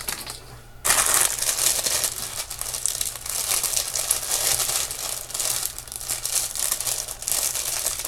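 Packaging rustling and crinkling as jewelry pieces are handled and unwrapped, starting suddenly about a second in and going on without a break.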